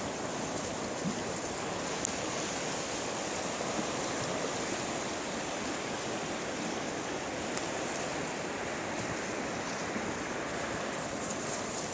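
River water flowing, a steady rushing that holds even throughout.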